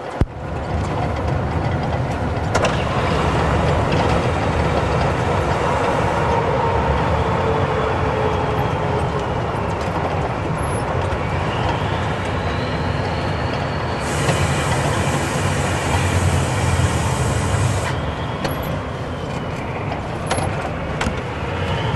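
Scania V8 truck engine running steadily with a deep rumble, overlaid by slow rising and falling whistle-like tones. Partway through, a high hiss comes in for several seconds and stops abruptly.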